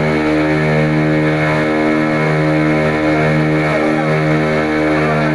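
Small boat's engine running steadily at cruising speed, holding one even pitch.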